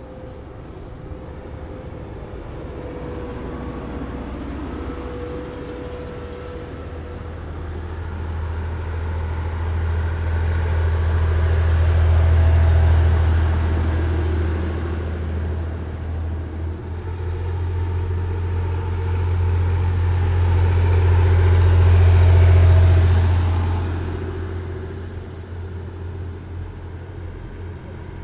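Heavy military vehicles driving past one after another, their diesel engines giving a deep, steady note. The sound swells and fades twice, peaking about twelve seconds in and again, loudest, a little past twenty seconds.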